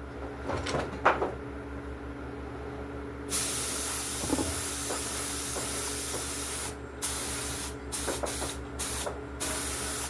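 Paint spray gun spraying urethane clear coat: a steady hiss starts about a third of the way in and is broken by several short stops near the end as the trigger is let off and pulled again. A few light clicks come before the spraying starts.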